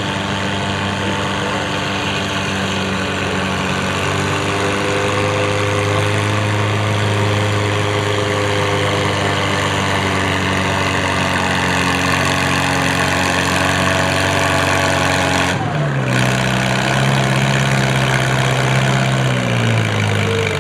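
Antique farm tractor engine running hard under load while pulling the weight sled, its note steady and sagging slowly as it bogs. About 15 seconds in the sound changes abruptly, and near the end the engine slows down as the pull ends.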